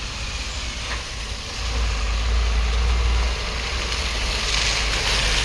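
Motor vehicle engine running at low speed, a steady low rumble that grows a little louder about two seconds in.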